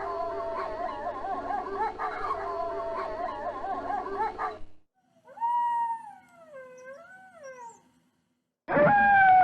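Wolves howling: a chorus of several overlapping, wavering howls that cuts off suddenly about four and a half seconds in, then a single howl that rises and falls, and after a short silence a loud howl starting near the end.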